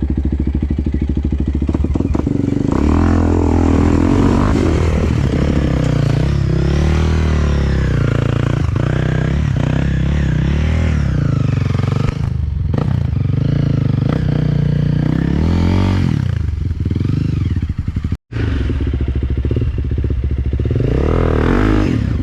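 Enduro dirt bike engine revving hard and unevenly, its pitch rising and falling every second or two as the throttle is worked. The sound cuts out briefly once near the end.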